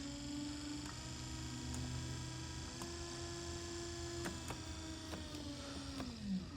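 Newport Vessels NV series 55 lb thrust electric trolling motor running with a steady whine, with a click at each speed change: the pitch steps up about a third of the way in and back down a little past halfway. Near the end it is switched off and the whine glides down as the motor spins down.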